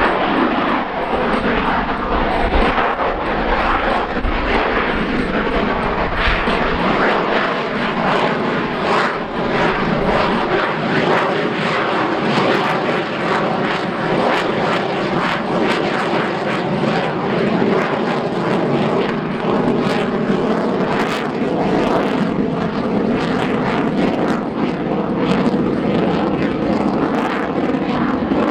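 F-22 Raptor's twin Pratt & Whitney F119 turbofan jet engines running loud and steady as the fighter flies its display, with a ragged crackle throughout. A deep rumble underneath fades out about seven seconds in.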